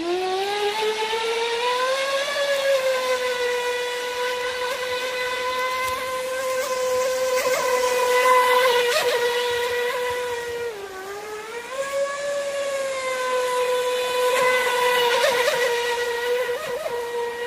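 Feilun FT011 RC speedboat's brushless electric motor whining at high revs on the water. The pitch rises as the throttle opens at the start, dips briefly about two-thirds through as the throttle eases, then climbs back and holds.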